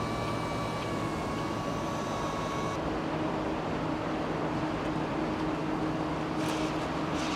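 Steady mechanical running noise with a high whine that cuts off abruptly about three seconds in, replaced by a lower steady hum.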